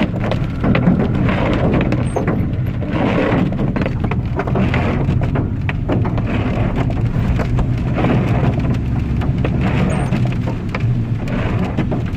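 Steady rain with many individual drops ticking close by, over a continuous low rumble.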